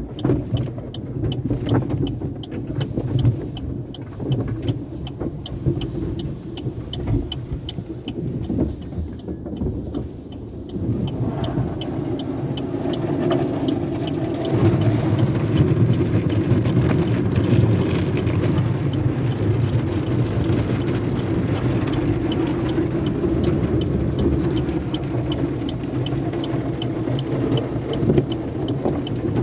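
Tunnel car wash equipment heard from inside a car going through the wash: a low mechanical rumble with a fast, regular ticking. About eleven seconds in, a broader washing noise of water and machinery swells up, and it gets louder again near fourteen seconds.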